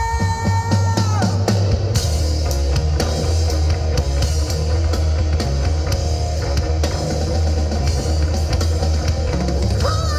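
Live rock band playing an instrumental passage on drum kit, electric guitars and bass. About a second in, held notes slide down and drop out; near the end a new note slides up and holds.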